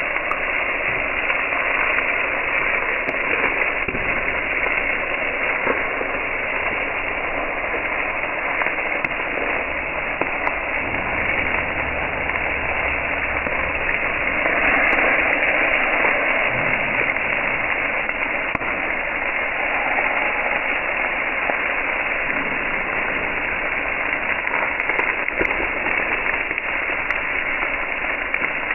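Pork belly sizzling on a grill: a steady crackling hiss that sounds like rain.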